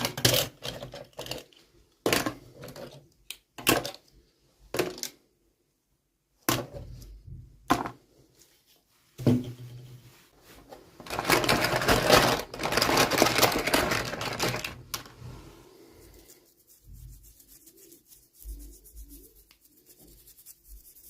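Small plastic toy pieces and packaging being handled in an unboxing: a string of sharp clicks and taps, then about four seconds of rustling around the middle, then faint small handling sounds.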